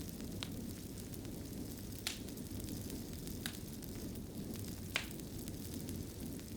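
Wood fire burning in a fireplace: a steady low rumble with sharp crackles and pops scattered through it, four of them standing out, the loudest about five seconds in.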